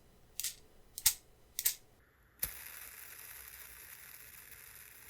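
Fingerboard clacking on a hard surface: three sharp clacks about two-thirds of a second apart, then a single knock about two and a half seconds in, followed by a steady hiss.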